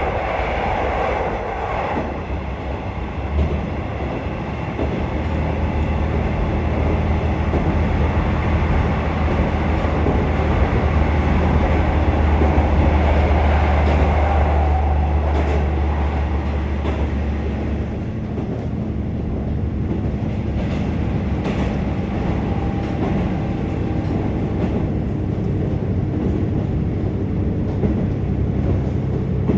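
KiHa 47 diesel railcar running, heard from inside the passenger car: a deep engine drone over wheel and rail noise. The drone fades about 18 seconds in, leaving lighter running noise.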